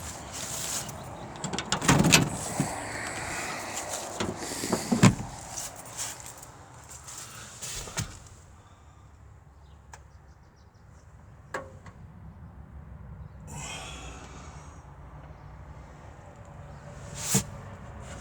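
Scattered knocks and thumps, five or so, the loudest about five seconds in, with a short rustle about fourteen seconds in.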